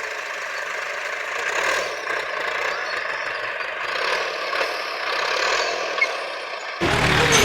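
Distant farm tractor running steadily while ploughing, heard as an even hiss with no low rumble. About seven seconds in it cuts abruptly to a louder, deeper sound.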